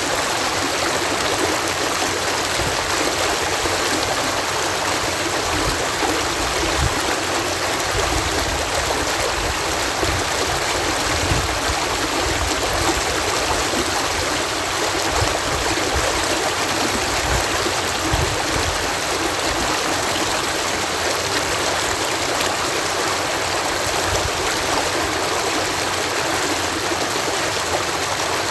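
Water pouring steadily over a canal lock, a constant rushing and splashing with irregular low thuds from the churning below.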